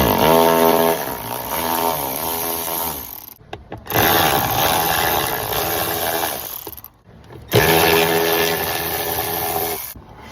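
Power driver spinning out the three T15 screws that hold a truck's blower motor, in three runs of about three seconds each. The motor's pitch sags as the first screw starts to turn.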